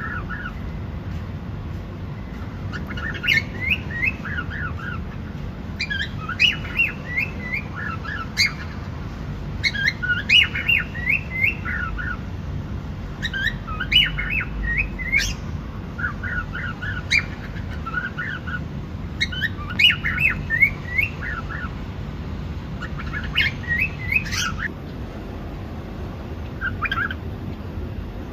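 Cockatiel chirping and singing in short phrases of quick, warbling notes, repeated every two to three seconds, over a steady low background hum.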